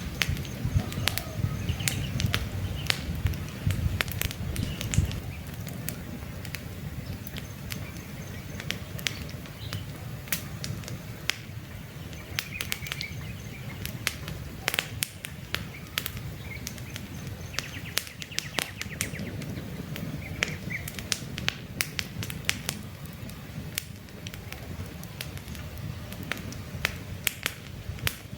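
Wood campfire crackling, with frequent sharp pops over the low rumble of the flames, which is heavier for the first five seconds. Birds chirp faintly now and then.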